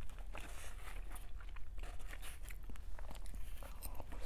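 Close-miked eating: chewing and crunching of food in the mouth, with small clicks and scrapes as a spoon works in a foam takeout container.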